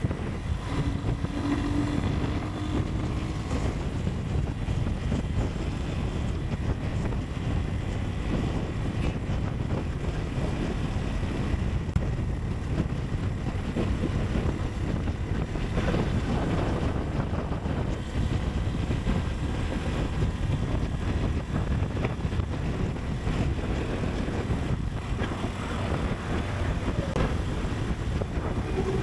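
Motorcycle ride: steady wind rush over the microphone, with engine and road noise underneath, holding an even level throughout.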